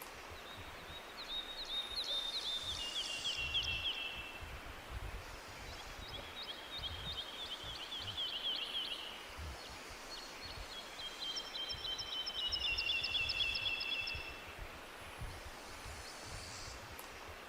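Songbirds singing rapid trilled songs in the forest, three songs a few seconds apart, each about three seconds long and stepping down in pitch, over a faint low rumble.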